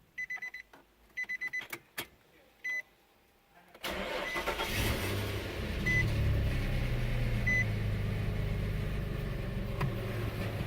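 Several groups of short electronic chime beeps and a couple of clicks, then about four seconds in the 2006 Nissan Xterra's 4.0-litre V6 cranks briefly and starts. It comes up a little in revs after catching and settles into a steady idle, with a couple more single beeps over it.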